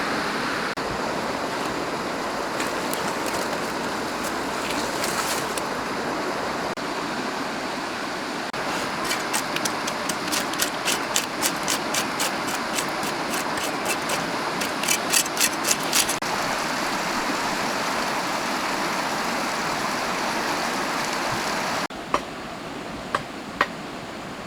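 Steady rushing of flowing water, like a forest stream. In the middle there is a quick run of sharp clicks or taps, and near the end a few single sharp knocks.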